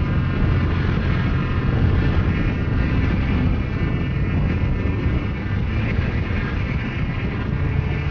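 Motorcycle engine running steadily under way, with an even drone that holds its pitch.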